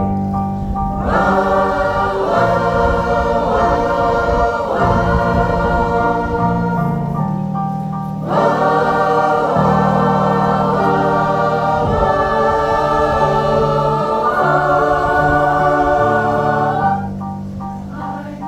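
Pop choir singing long held chords over a steady accompaniment with a low bass line. The voices break off briefly about eight seconds in and drop away near the end, leaving the accompaniment.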